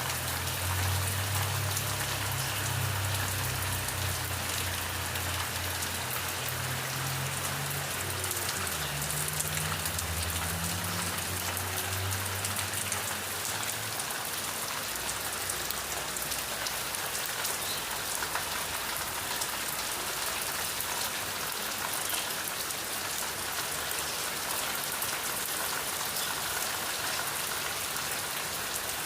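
Steady rain falling on a surface, a dense even patter. A low rumble sits under it for the first half and dies away about halfway through.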